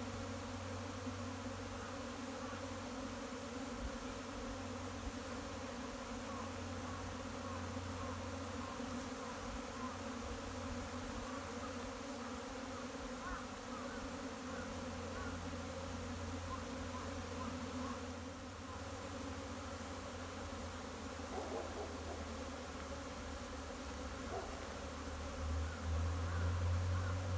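Dense buzzing of many Japanese honeybees flying around a hive as a swarm moves in. The buzz is steady and grows louder near the end.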